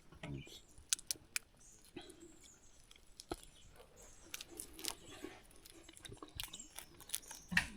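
Faint chewing of a dry, crumbly emergency ration bar, with scattered sharp crunches.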